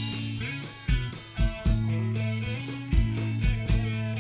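Live rock band playing an instrumental passage with electric guitar, bass and drum kit, with no vocals.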